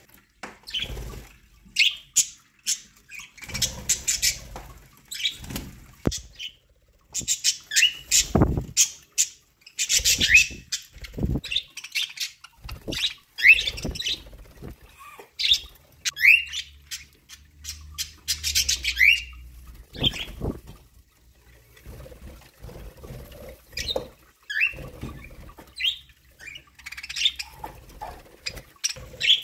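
Pet budgerigars chirping and chattering in short calls, with scattered squawks and brief wing flutters or rustling.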